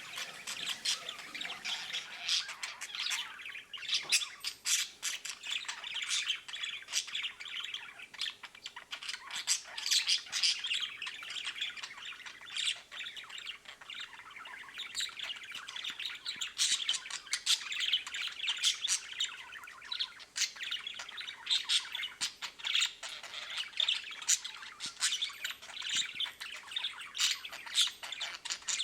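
Budgerigar chattering and squawking without a break, a fast jumble of warbles, chirps and sharp clicks.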